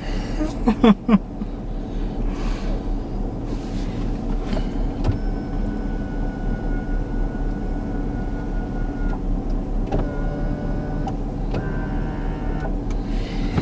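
Steady hum of a parked car's idling engine and air-conditioning fan, heard from inside the cabin.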